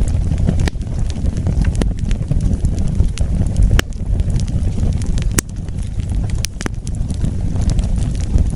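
Wood fire burning, with a steady low rumble under scattered sharp crackles and pops, a few of them loud.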